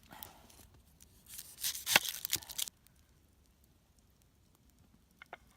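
Brief crisp scraping and rustling of onion being handled and added to chopped tomatoes, with a sharp knock at its loudest point about two seconds in. Two faint clicks follow near the end.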